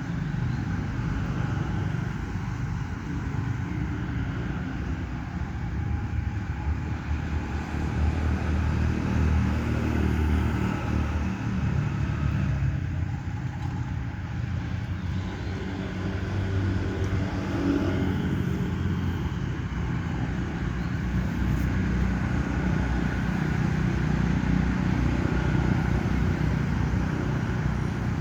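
Steady low rumble of motor-vehicle traffic, with engines swelling and fading as they pass, strongest about ten seconds in and again near eighteen seconds.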